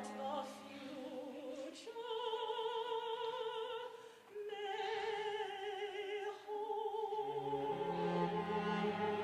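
Operatic singing: a voice holds long notes with wide vibrato in three phrases. Lower accompanying notes come in about three-quarters of the way through.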